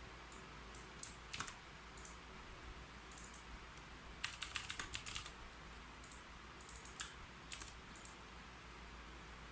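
Typing on a computer keyboard in short runs of keystrokes with pauses between them. The longest run comes about four to five seconds in.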